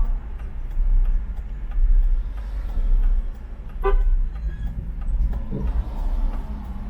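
Steady low rumble of traffic and road noise from a car driving on an urban expressway, with one short car-horn toot about four seconds in.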